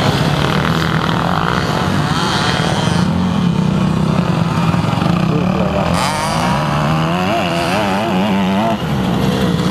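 Motocross bike engines running on the track. Their pitch rises and falls over and over as the throttle is worked, most noticeably in the second half.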